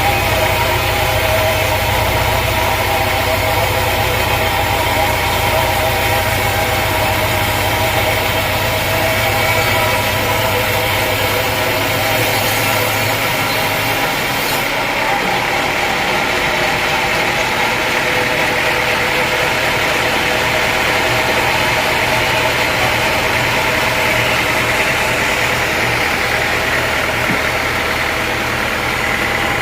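Sawmill machinery running steadily with an engine-like hum and a band of steady tones; about halfway through, the low hum and a high hiss drop away while the rest keeps running.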